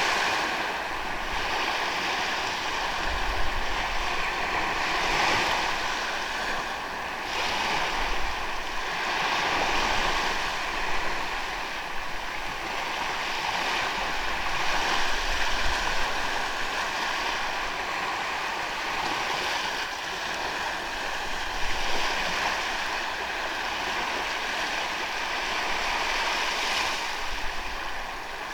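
Ocean waves washing onto a sandy beach, the surf swelling and falling back every few seconds, with some wind on the microphone.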